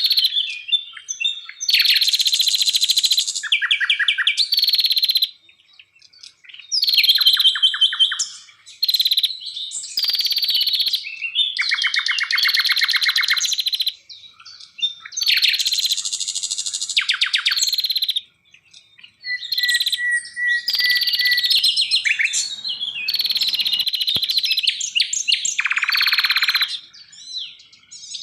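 Songbirds singing high-pitched phrases of a second or two, full of rapid trills and buzzy notes, with short pauses between phrases.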